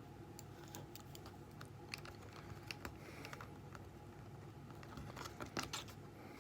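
Faint scattered clicks and taps of small tools and plastic parts being handled as a smartphone is taken apart, with a quick run of louder clicks about five seconds in.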